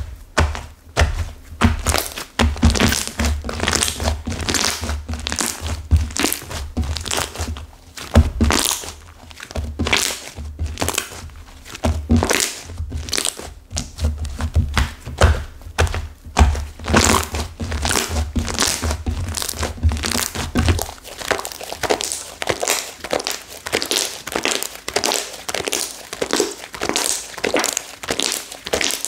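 Slime mixed with clay that has set hard being squeezed and pressed by hand. It gives dense, irregular crackling and crunching with dull thuds. The thuds stop about two-thirds of the way through, and the crackling goes on.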